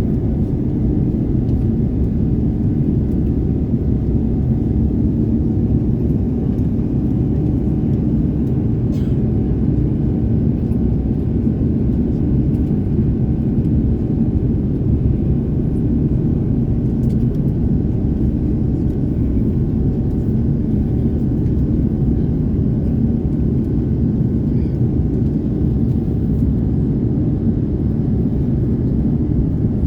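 Airbus A330neo cabin noise in flight: its Rolls-Royce Trent 7000 engines and the airflow make a steady low rumble with a faint even hum, heard from inside the passenger cabin.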